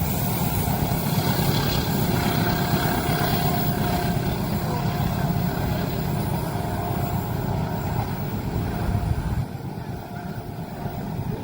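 Train passing through a level crossing: a steady heavy rumble of wheels on the track that drops off abruptly about nine seconds in.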